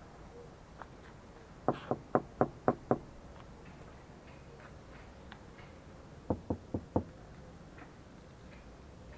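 Knocking: a quick run of six evenly spaced knocks, about four a second, then a pause and a second run of four knocks.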